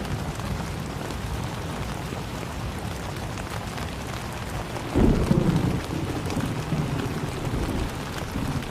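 Steady heavy rain falling, with a roll of thunder breaking in about five seconds in, loudest for a second and then rumbling on more softly.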